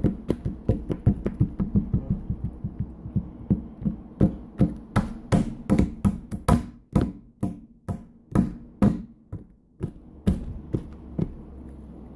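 An irregular run of sharp taps and knocks, several a second, thinning out toward the end.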